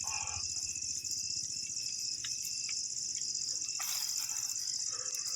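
Steady, high-pitched trilling of insects, with a few faint ticks.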